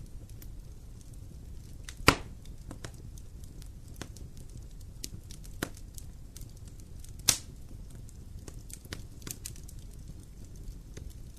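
Campfire burning: a steady low rush with scattered faint crackles, and two loud sharp pops, about two seconds in and near seven seconds, with a smaller one between them.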